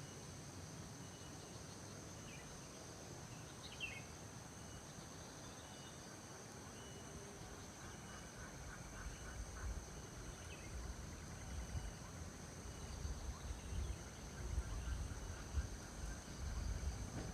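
Steady chorus of crickets and other insects, with a few short chirping calls early on. From about halfway through, an uneven low rumble on the microphone builds and grows louder.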